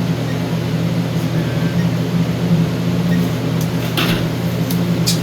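Steady low machine hum, with a few short clicks or rustles near the end.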